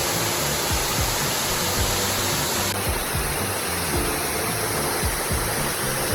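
Steady rush of a waterfall, with soft background music over it.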